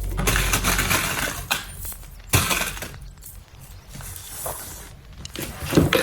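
Plastic packaging crinkling and rustling as it is handled, in irregular spells, with one sharp knock a little over two seconds in.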